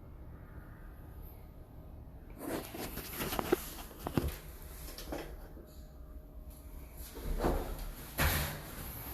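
A few sharp knocks and clacks with some scuffing and rustling between them, starting a couple of seconds in.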